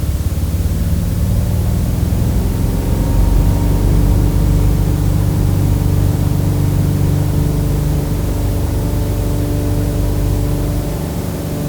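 Airplane engines running steadily: a low rumble with a sustained hum of several tones, growing a little louder about three seconds in.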